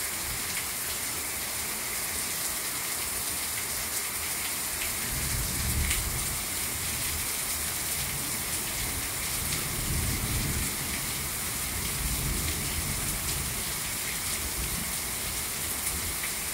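Heavy rain pouring down steadily, a dense even hiss. A low rumble swells up twice, about five and ten seconds in.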